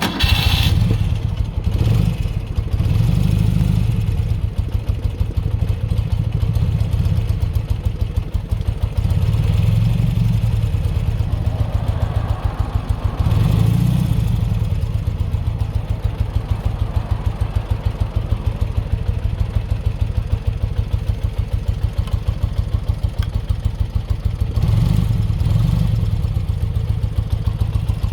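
1972 BMW R75/5's air-cooled flat-twin (boxer) engine on a cold start. It catches right at the start, then idles with an even pulse, picking up in revs a few times.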